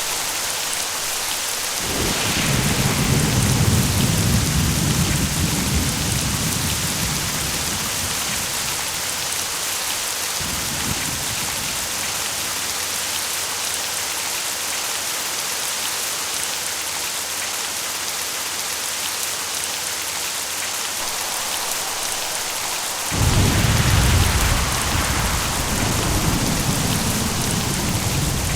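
Steady rain hissing throughout, with rolling thunder. One rumble comes about two seconds in and fades over several seconds, a fainter one follows around ten seconds in, and a louder peal starts suddenly near the end and rolls on.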